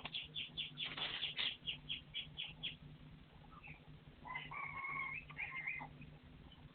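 Partridge calling: a rapid run of short, high notes, about five a second for two and a half seconds, then, after a pause, a longer call held at a steady pitch.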